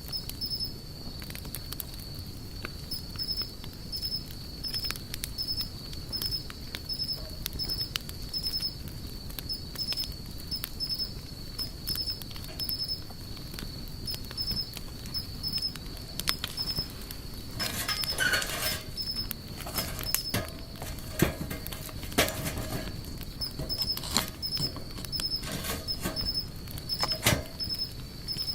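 Wood fire crackling and popping at irregular intervals over a low rush of flame, with a denser spell of crackling about two-thirds of the way in. A steady high-pitched chirping in a regular rhythm runs underneath.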